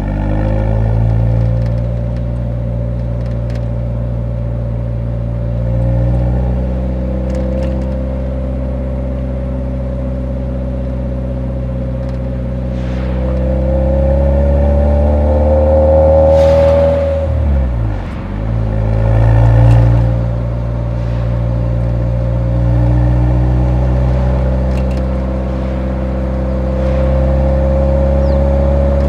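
Nissan 180SX's four-cylinder engine heard through its muffler while driving, mostly at a steady cruise. It rises in pitch under acceleration, dips sharply at a gear change about eighteen seconds in, then pulls again.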